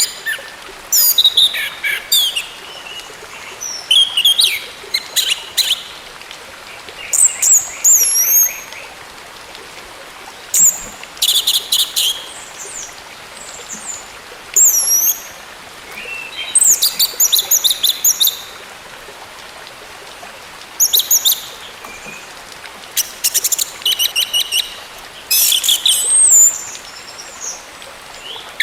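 Orange-headed thrush singing: bursts of high, sharp whistled notes, some sliding in pitch, mixed with fast rattling runs and separated by pauses of a second or two.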